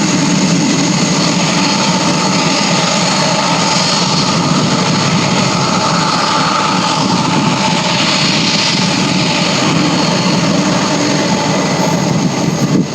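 Jet airliner engines running, loud and steady, with a high whine over the engine noise.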